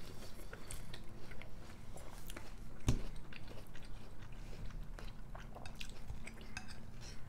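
Close-up chewing of yogurt with granola and apple, with small clicks of a spoon in a ceramic bowl and one louder knock about three seconds in.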